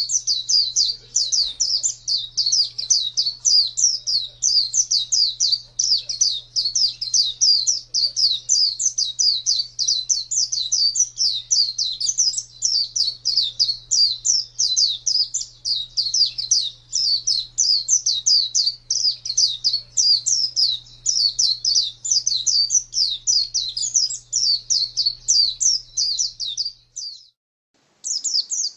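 A pleci (white-eye) singing a long, unbroken stream of rapid, high sweeping chirps, several a second, in the fast continuous song that bird-keepers call "gacor". The song breaks off for about a second near the end, then starts again. A faint low hum runs beneath it until the break.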